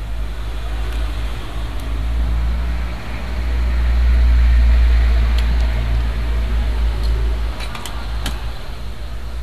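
Hot air rework station blowing a steady stream of air, swelling louder in the middle, with a few small tool clicks in the second half.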